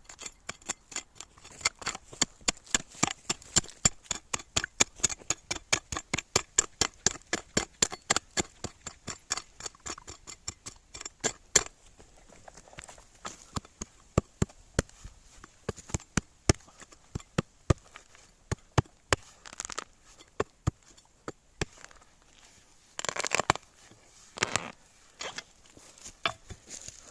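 Quick, regular strikes of a digging tool chipping into soil and roots to free a winter bamboo shoot, about three to four a second, thinning to scattered knocks after about twelve seconds. Two longer scraping rustles come near the end.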